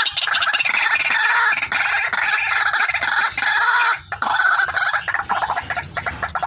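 Female white-breasted waterhen (ruak-ruak) calling: a dense run of rapid, harsh repeated notes, with a brief break about four seconds in.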